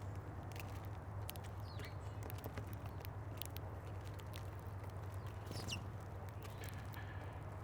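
Small birds feeding at a seed feeder: scattered light clicks and taps of pecking, with two short chirps, over a steady low hum.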